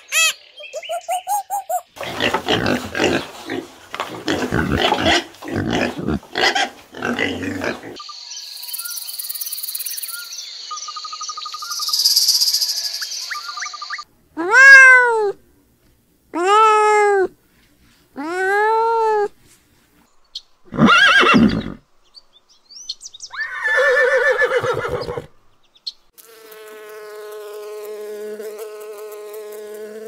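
A run of separate animal sounds. In the first several seconds there are harsh bursts of calling. About halfway through, a cat gives three drawn-out meows, each rising then falling and about two seconds apart, then a shorter one. Near the end a bumblebee buzzes steadily.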